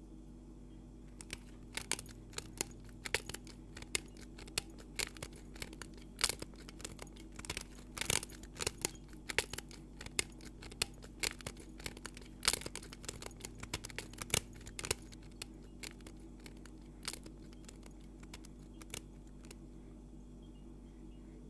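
Scattered sharp crackles and clicks, several a second and irregular, over a steady low hum. The crackles start about a second in and stop a couple of seconds before the end.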